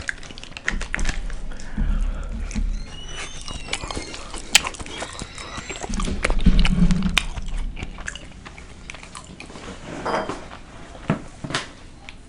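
Biting and chewing a Tina's red hot beef burrito, with many small wet mouth clicks and smacks.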